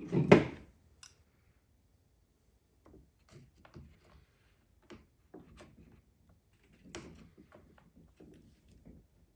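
Handling noise during a chainsaw repair: one loud thunk right at the start, then scattered light knocks and clicks of parts and tools being handled.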